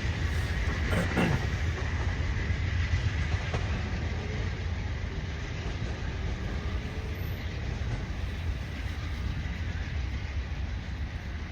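A train rolling past on the tracks: a steady low rumble of the cars over the rails, with a faint thin high squeal during the first few seconds.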